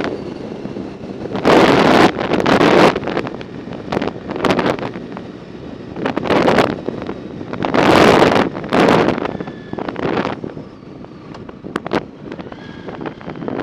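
Wind buffeting the microphone in irregular gusts while riding a bicycle, with a few sharp clicks in between.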